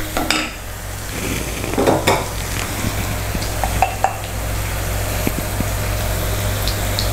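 Coconut oil sizzling steadily in a kadai with tempered mustard seeds, fenugreek, garlic, ginger, chillies and curry leaves, being stirred. A few short knocks of wooden spoons against the pan and salt jar.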